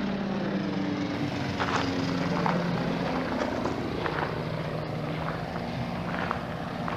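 An ultralight aircraft's engine and propeller running steadily, its pitch dropping a little about a second in, with a few small knocks and clicks over it.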